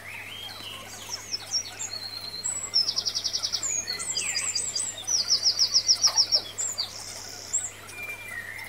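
Small birds chirping and singing, with two loud, rapid high trills about three and six seconds in, among shorter chirps and whistles.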